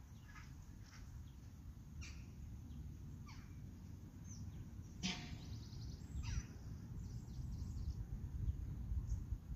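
Birds calling now and then, a handful of short, falling calls, the loudest about five seconds in, over a steady low rumble.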